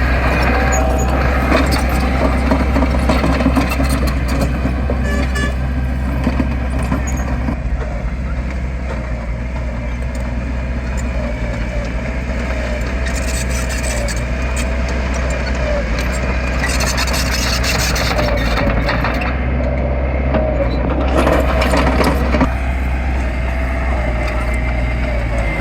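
Heavy diesel engine of an earth-moving machine running steadily, with a wavering whine above the low engine hum.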